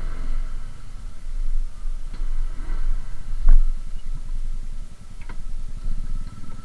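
A motor vehicle's engine running steadily while driving, with road rumble and a few sharp clicks, the loudest about halfway through.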